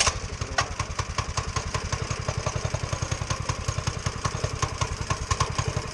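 Motoland RT200's single-cylinder four-stroke engine catching on a cold start with the choke on, then idling steadily with an even, rapid beat while it warms up.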